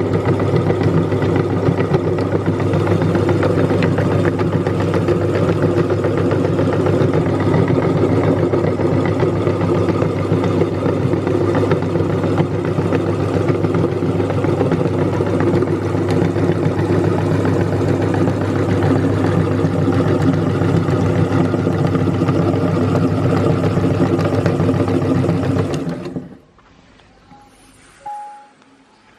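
Electric meat grinder motor running steadily under load, then switched off about 26 seconds in and spinning down to a stop.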